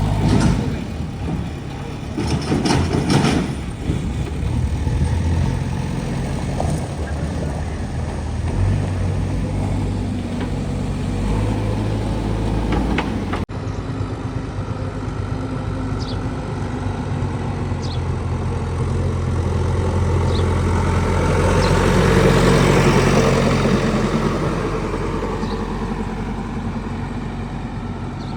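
Heavy diesel engine running steadily. About two-thirds of the way through it grows louder for several seconds, as under load or coming closer, then eases off again.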